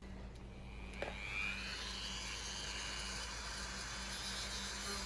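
Dremel rotary tool fitted with a cutting wheel, switched on and running steadily; a higher whine rises about a second in as it spins up.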